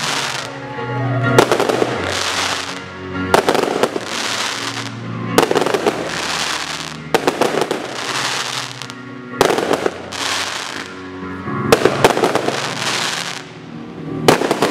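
Aerial fireworks shells bursting about every two seconds, each sharp bang followed by a fading crackle, over music with sustained notes.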